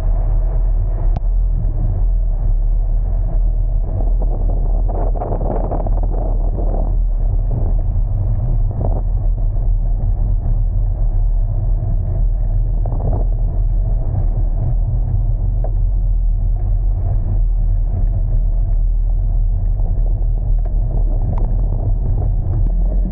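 A car driving, with a steady low engine and road rumble throughout.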